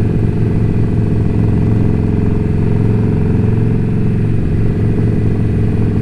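Indian Scout Bobber's V-twin engine and exhaust running steadily while cruising at an even speed.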